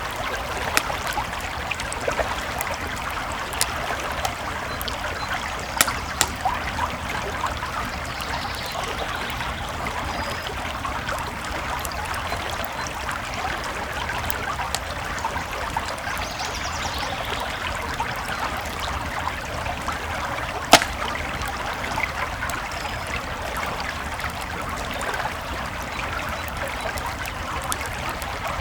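A creek flowing steadily, with campfire crackles and sharp pops of burning wood over it. The loudest pop comes about two-thirds of the way through.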